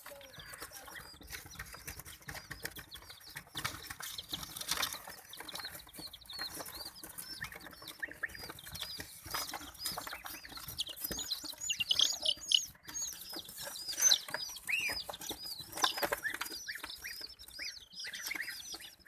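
Baby chicks and ducklings peeping: many short, high, arched peeps, thickest in the second half, with scattered taps and scuffles.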